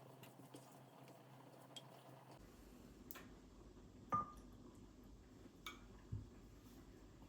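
Very quiet room with a few faint scattered clicks and small knocks of something being handled. About four seconds in comes one sharper click with a brief ringing tone, like a light clink, followed by two softer taps.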